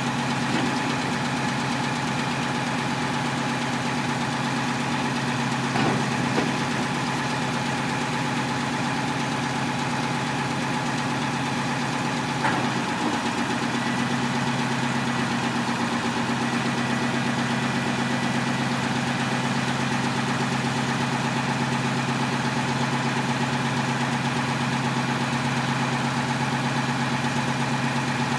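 Truck engine idling steadily, with a couple of short knocks about six seconds and twelve seconds in.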